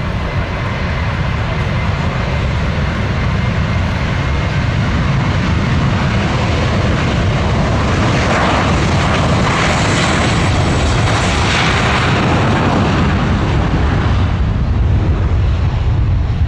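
Military aircraft engines running loud as an aircraft flies past. The noise builds to its fullest and brightest in the middle of the pass and then eases off.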